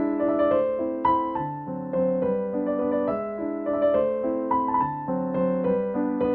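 Background piano music: a gentle melody of notes struck one after another over held chords.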